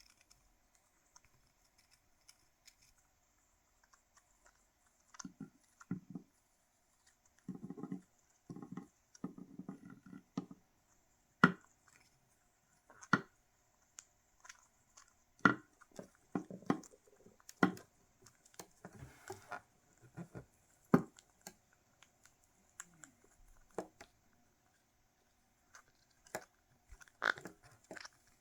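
A quaker parrot biting and gnawing at a cuttlebone: irregular sharp crunches and clicks, starting about five seconds in.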